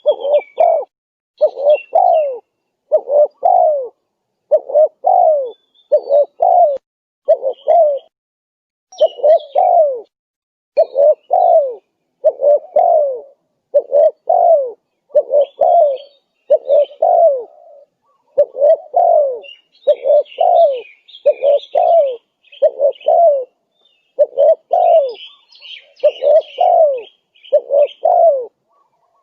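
Spotted dove cooing over and over, a short phrase of coos about once a second. Faint high chirps of small birds sound behind it, more of them in the second half.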